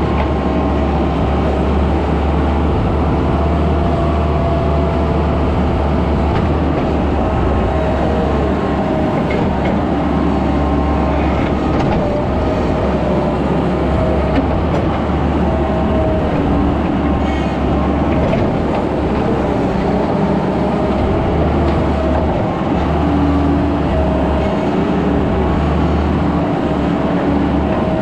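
Skid steer running steadily at work, a deep engine drone with a higher whine over it that comes and goes and shifts in pitch.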